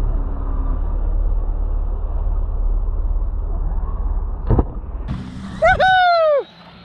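Electric RC car running: a steady low rumble of the drivetrain and tyres, a single knock about four and a half seconds in, then a loud motor whine that falls in pitch near the end and cuts off suddenly.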